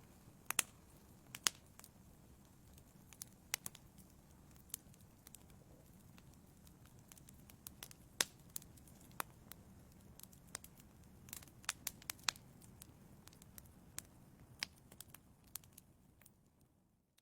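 Wood fire burning in a fireplace: irregular sharp crackles and pops over a soft low rumble. The sound fades away at the very end.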